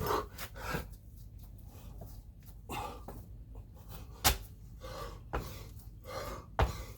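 A man panting hard from exertion, with short heavy breaths throughout. In the second half come three sharp thuds about a second apart, his landings from jump squats.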